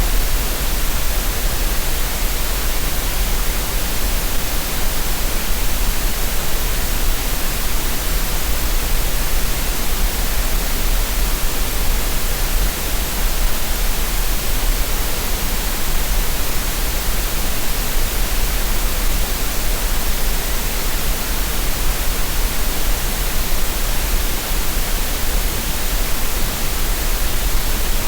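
Steady synthetic green noise: a constant, unchanging hiss with a deep low rumble under it, used for relaxation and tinnitus masking.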